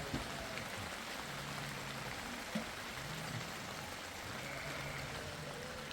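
Steady rushing hiss of rain and running water.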